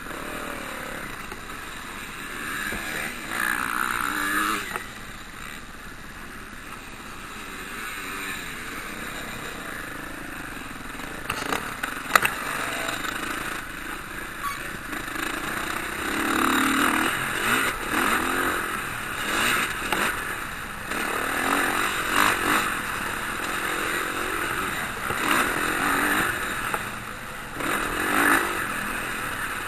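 Motocross bikes racing, their engines revving up and falling away again and again as riders pass and work the throttle. A single sharp crack stands out about twelve seconds in.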